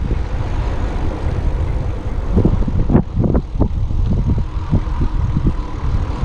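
Wind rumbling on a GoPro's microphone during an e-bike ride, with a few short thumps about halfway through.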